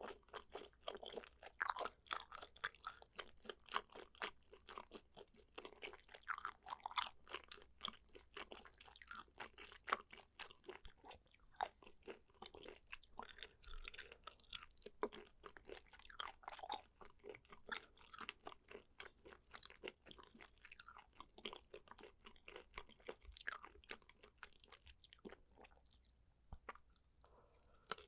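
A person chewing and crunching food close to the microphone, with a quick, irregular run of wet clicks and smacks that thins out briefly near the end.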